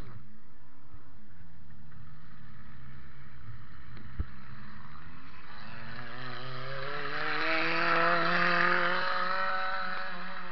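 Toyota Matrix derby car's four-cylinder engine heard from inside its stripped cabin. It runs steadily with a single knock about four seconds in, then revs up over a few seconds past the halfway point and holds the higher revs.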